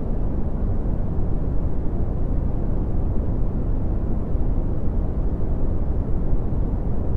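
Red (Brownian) noise: a steady, deep rushing hiss, loudest in the low bass and falling away toward the treble, with no events or changes.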